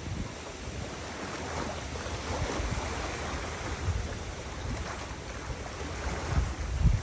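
Wind buffeting the microphone in irregular low gusts over a steady rush of river water, with the strongest gust near the end.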